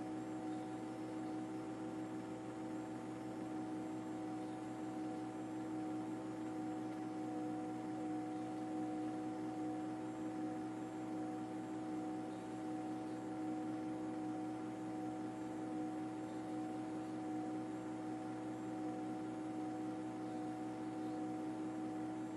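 A steady hum made of several fixed tones over a soft hiss, unchanging throughout, like a running machine or engine drone.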